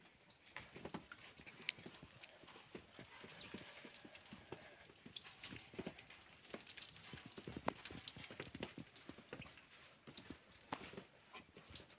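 Faint, irregular clicking and knocking of many hooves: a flock of goats and sheep stepping over stony ground.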